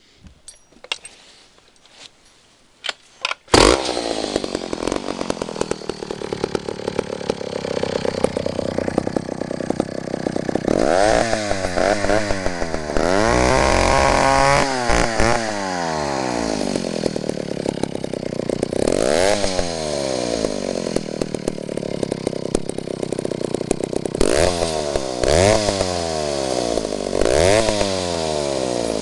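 Vintage McCulloch 1-50 two-stroke chainsaw starting up: a few short clicks, then the engine catches about three and a half seconds in and runs steadily. It is revved up and back down several times, in a cluster of quick revs in the middle and more near the end.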